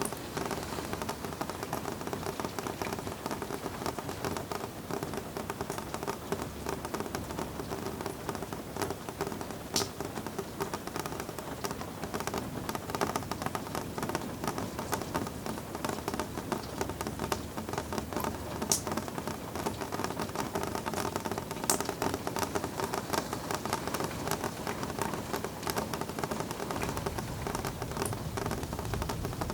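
Steady rain falling, a dense hiss of fine drops with a few sharper single drops tapping now and then.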